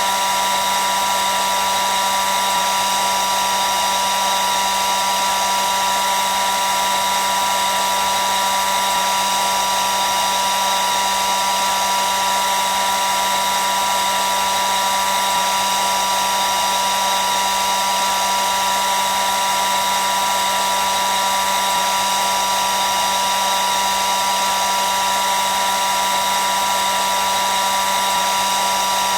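Hair dryer running continuously at a steady speed, a constant whirring rush of air with a steady motor whine.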